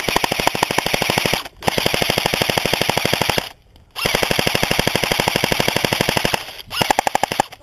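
Airsoft rifle firing on full auto, a fast even rattle of shots in long bursts, with a pause of about half a second roughly three and a half seconds in and a shorter burst near the end.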